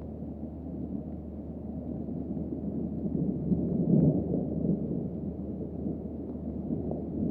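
Rolling thunder: a low rumble that builds to its loudest about four seconds in and then slowly dies away.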